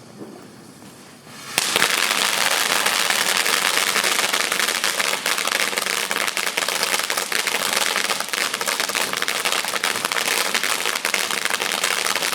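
A 500-gram consumer firework cake firing. After a quieter first second and a half, it breaks into a dense, continuous crackling of rapid small pops that keeps going with little letup.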